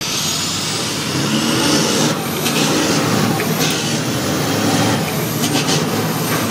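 Heavy diesel dump truck engines running loud under acceleration. A high whine rises over the first seconds, and there are a few brief sharp sounds in the middle and near the end.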